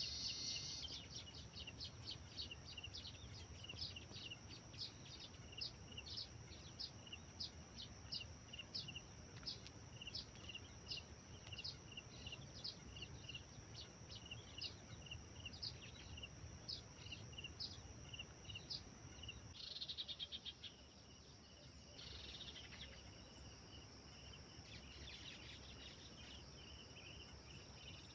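Faint birdsong: a short high chirp repeated about twice a second, then an abrupt change about two-thirds of the way in to a quick trill and looser, mixed chirping.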